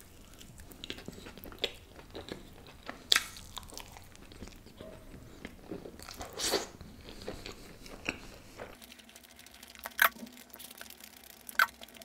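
Close-miked chewing of a mouthful of khameeri roti wrap filled with pav bhaji, chicken tikka, onion and a momo: irregular soft crunches and mouth smacks, with a few louder smacks about three, six and a half and ten seconds in.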